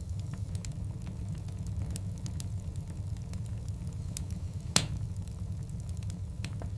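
Wood fire of large burning logs crackling, with scattered sharp pops over a steady low rumble of the flames; one louder pop a little before five seconds in.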